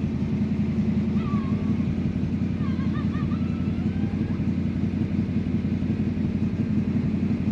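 The 347 stroker small-block Ford V8 in a 1966 Mustang GT350 replica idling steadily during warm-up after a cold start. It runs through shorty headers and the existing exhaust.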